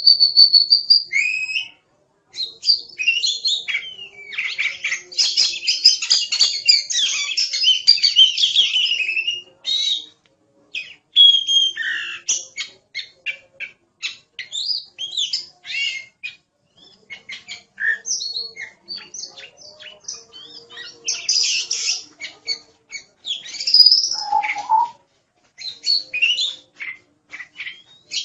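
Oriental magpie-robin in full, energetic song: a varied string of whistles, trills and chirps. A dense run of rapid notes comes a few seconds in, followed by shorter phrases with brief pauses between them and one lower whistle near the end.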